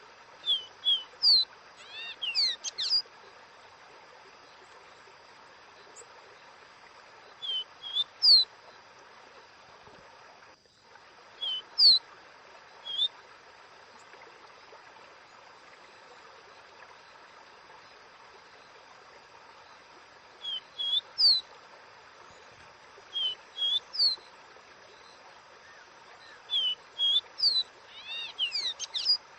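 Caboclinho, a Brazilian Sporophila seedeater, singing short phrases of clear, slurred whistled notes in about seven bouts, with pauses of several seconds between them. A steady rushing hiss like a stream runs underneath.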